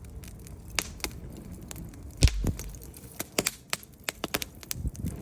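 Wood fire in a fireplace crackling, with sharp, irregular pops and snaps and one louder, deeper pop about two seconds in.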